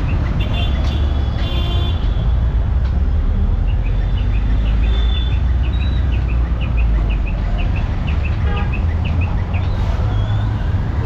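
Busy street traffic with a heavy, steady rumble of vehicles, and brief horn toots near the start. Through the middle a run of short high chirps repeats a few times a second.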